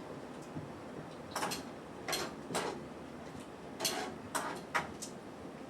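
Kitchen clatter: about seven short, sharp knocks and clinks, irregularly spaced and bunched in the middle few seconds, as utensils and dishes are handled on a counter.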